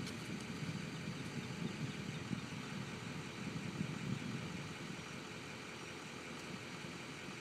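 Airboat's 502 carbureted big-block V8 engine and belt-driven propeller running steadily, easing off slightly about halfway through.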